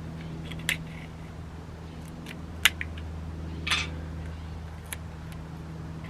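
A few short scrapes and taps of chalk rubbed on a truck's painted bumper to fake a scuff, over a steady low hum.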